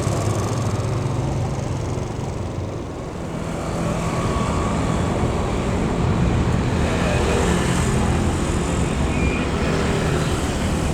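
Steady, loud engine rumble from passing motor traffic or aircraft, dipping briefly about three seconds in before picking up again.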